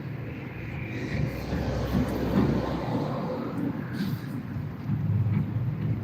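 Steady low outdoor rumble, with no distinct calls standing out.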